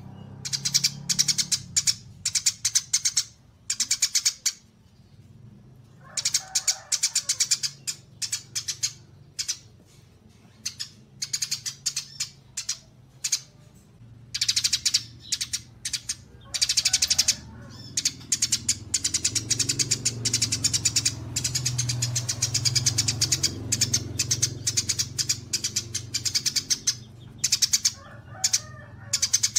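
Small songbirds chirping in fast, high-pitched runs of rapidly repeated notes, coming in bursts of a second or two with short pauses between.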